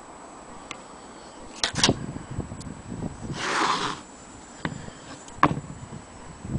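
Handling noises: a few sharp knocks and clicks, with a short scraping rustle in the middle.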